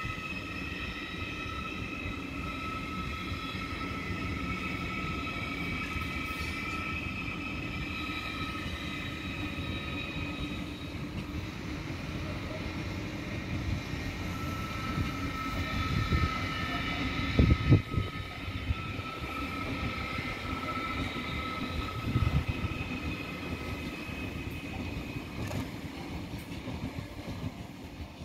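Deutsche Bahn ICE electric high-speed train of two coupled units passing: a steady rumble of wheels on rail under a high whine that holds throughout. A few heavy knocks come about two-thirds of the way through, and the sound fades as the train clears near the end.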